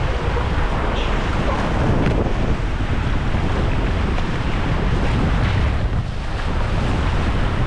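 Rushing white water of the Ganges river rapids, a steady loud wash, with wind buffeting the microphone.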